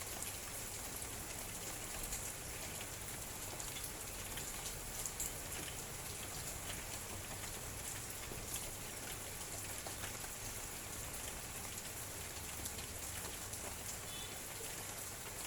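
Light drizzle falling steadily, a continuous hiss with many small scattered ticks of raindrops hitting surfaces.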